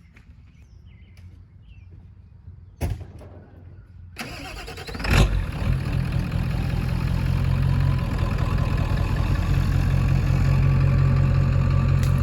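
A single knock about three seconds in, then a one-ton dump truck's Ford Power Stroke diesel engine comes in loud about four seconds in and runs steadily.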